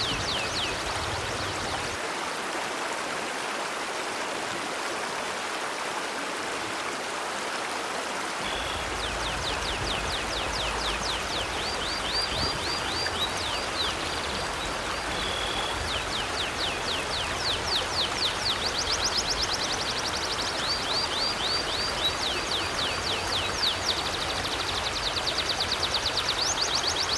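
River water flowing steadily. Over it, a bird gives long runs of rapid, high, down-slurred chirps, starting about a third of the way in and continuing to the end.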